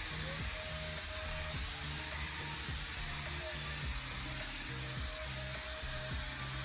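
Steady hiss of a paint spray gun spraying thinned metal paint, under background music.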